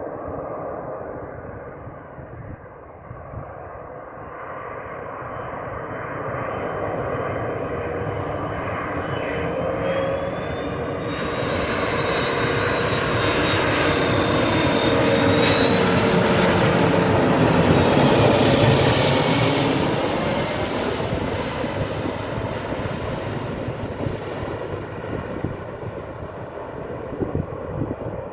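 Airbus A330 jet airliner passing overhead on approach to land: the engine noise and a high turbine whine build steadily, peak about eighteen seconds in, then fade as the whine drops in pitch.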